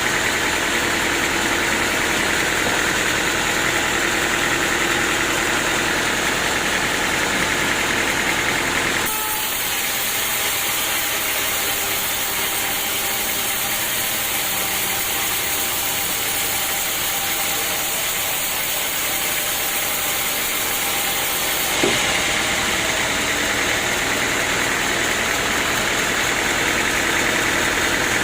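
Sawmill machinery running steadily with an engine-like drone. About nine seconds in the sound abruptly turns thinner and more hissy, and it switches back to the fuller drone about twenty-two seconds in.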